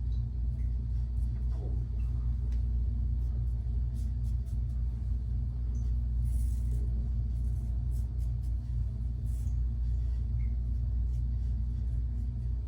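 A steady low hum, with a few faint short scrapes of an injector-blade razor drawn across stubble.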